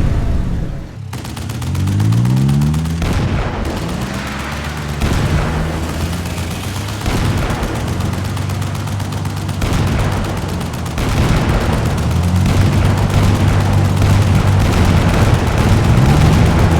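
Cartoon vehicle sound effects: an engine revving up in rising sweeps a second or two in, over a fast rattling clatter and background music.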